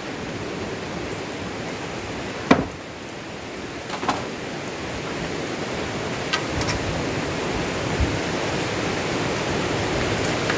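Steady hiss of heavy rain falling in the forest, with a few short sharp knocks, the loudest about two and a half seconds in.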